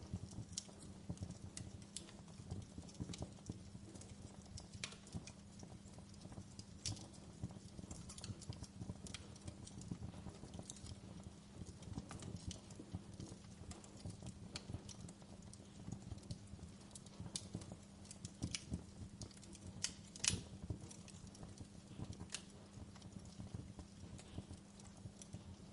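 Wood fire crackling in a fireplace: irregular sharp pops and snaps over a low steady hum, with one louder pop about twenty seconds in.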